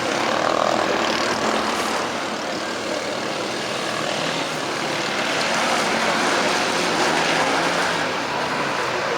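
An off-road 4x4's engine running steadily with a droning hum, mixed with dense noise.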